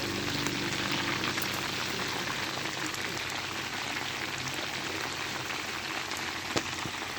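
Chicken cooking in a pan, a steady crackling hiss of frying. A single sharp knock comes near the end.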